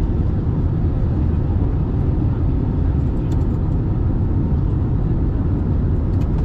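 Steady low rumble inside the cabin of an Airbus A320 airliner: engine and airflow noise, with a couple of faint clicks.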